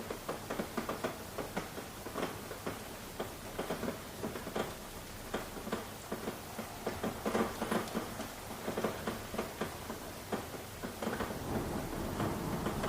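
Rain falling, with many separate drops striking a surface in a dense, irregular patter. Near the end a low rumble swells under it.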